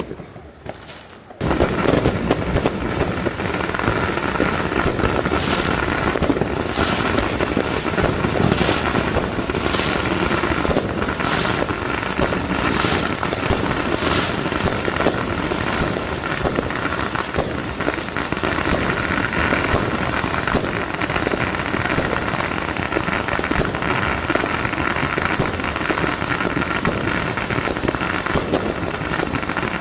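Fireworks going off: after a quiet first second and a half, a loud, dense, unbroken crackle of rapid bangs starts suddenly, with sharper pops scattered through it.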